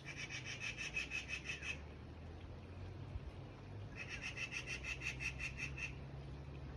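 A small bird giving a rapid trilled call twice, each burst a quick run of about eight sharp notes a second lasting nearly two seconds.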